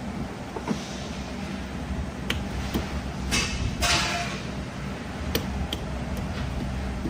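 Metal parts clinking a few times, with two short scraping sounds in the middle, as the torque converter housing is fitted onto the transmission case, over a steady low hum.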